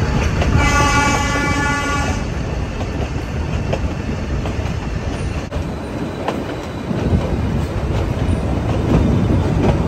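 Nilgiri Mountain Railway train running on its track, a steady rumble of the wheels and coaches. About half a second in, the train's horn sounds once for just under two seconds.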